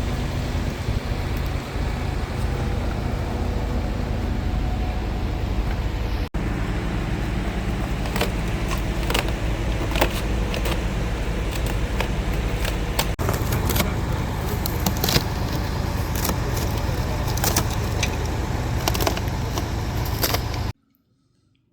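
Steady mechanical running noise with a low hum, like a vehicle or motor. From about eight seconds in it carries scattered sharp clicks and rattles, and it cuts off abruptly near the end.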